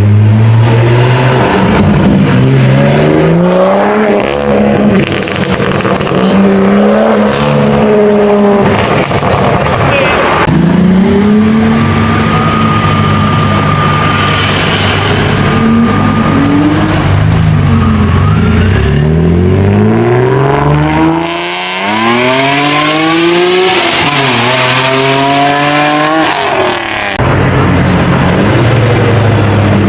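Performance car engines revving and accelerating hard, pitch climbing and dropping repeatedly as they rev and shift. About two thirds of the way in, one long hard pull climbs steadily through the gears and cuts off suddenly.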